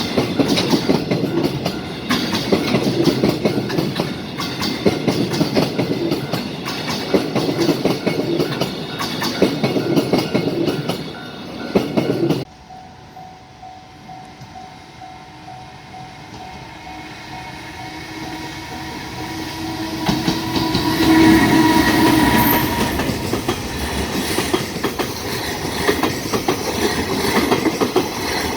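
JR Freight EF510 electric locomotive and its freight wagons passing at speed with loud, steady wheel clatter, which cuts off suddenly about 12 s in. Then a train approaches, growing steadily louder, with a short horn blast as it comes close, and runs past with a steady rush.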